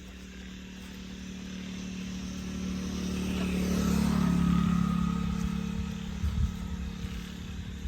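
A motor vehicle engine passing by, its steady hum growing louder to a peak about halfway through and then fading, with a couple of low thumps near the end.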